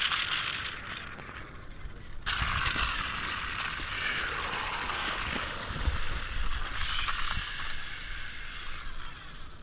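Toy monster truck's motor and gear drive whirring as it runs. The sound drops off about a second in, then starts up again abruptly after two seconds and carries on steadily.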